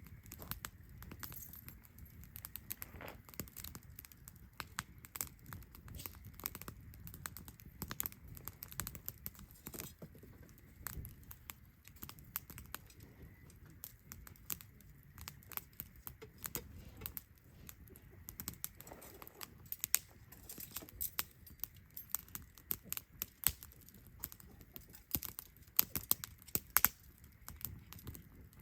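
Wood campfire crackling: irregular sharp pops and snaps over a low steady rumble, the snaps louder and more frequent in the last several seconds.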